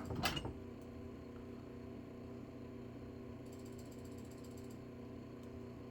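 A single sharp snip about a quarter second in, as cutters trim the end of a hollow chain, then a steady low mechanical hum.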